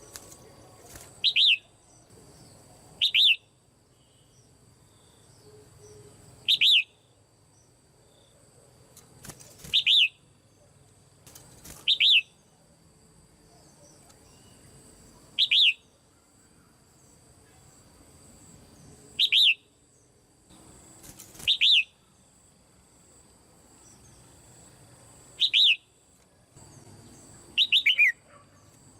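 Red-whiskered bulbul calling from a cage: about ten short, sharp chirping calls, one every two to four seconds.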